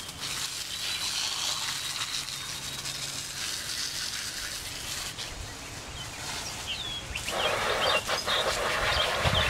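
Steady hiss of water spraying onto a muddy dirt bike, growing louder and fuller about seven seconds in, with a few bird chirps.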